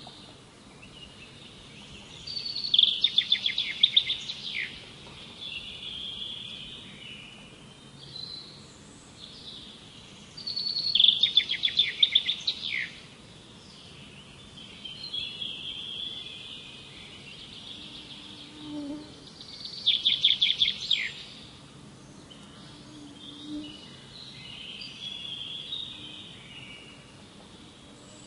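Songbirds singing: one bird gives a loud, rapid, high trilled song three times, about eight seconds apart, with softer chirping phrases in between.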